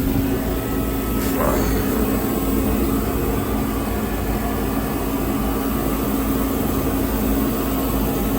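Steady background hum with a low rumble, unchanging throughout.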